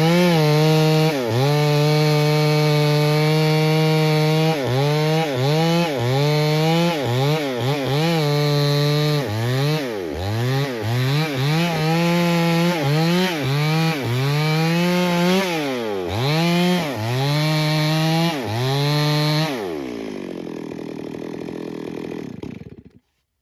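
Two-stroke chainsaw cutting into a mahogany tree: held at full throttle at first, then revving down and up over and over, about once a second. Near the end it drops to idle and then cuts off abruptly.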